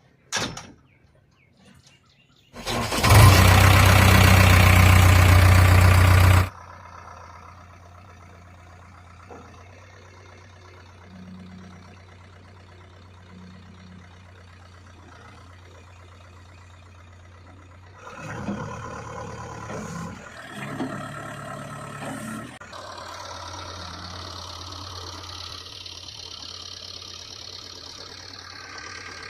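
Diesel engine being started: a click, then a loud burst for about four seconds as it cranks and catches, then a steady idle. Later it runs louder and busier for a few seconds before settling back to a steady run.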